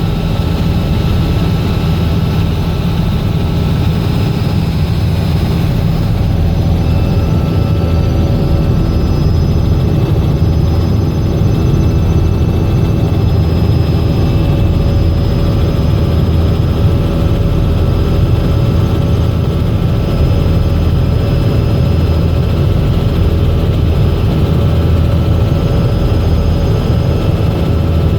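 Robinson R66 helicopter in flight: a steady drone of the rotor and turbine engine, with faint thin whining tones above it that hold level throughout.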